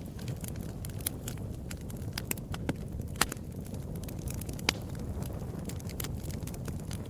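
Wood fire burning in a fireplace: a steady low rumble of the flames with irregular crackles and snaps, two sharper pops a little past the middle.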